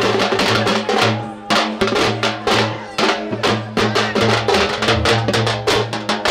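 Fast, loud drumming: a dense run of rapid drum hits over a steady low tone, with a brief drop a little after one second in.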